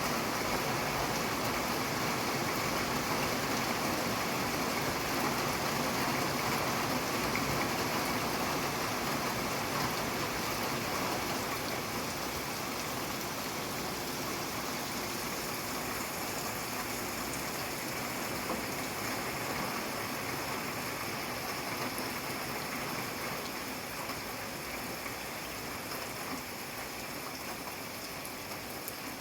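Steady rain falling, an even hiss with dense drops that eases slightly after about ten seconds.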